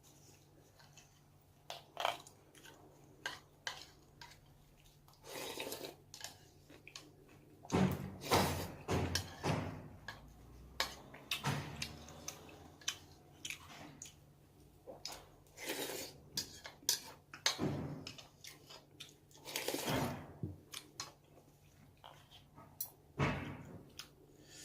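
Someone eating beef bone soup and braised pollock: chewing, with cutlery knocking and clinking on the dishes every second or two. A faint steady hum runs underneath.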